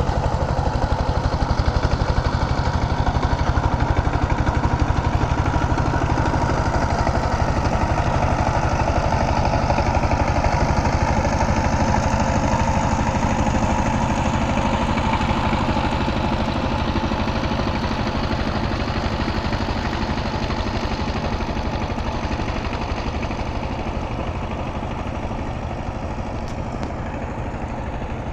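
Power tiller engine running steadily with a fast, even firing beat, getting slightly quieter toward the end.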